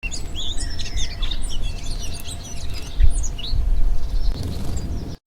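Small birds chirping in a quick run of short, high calls over a loud, uneven low rumble. The sound cuts off suddenly near the end.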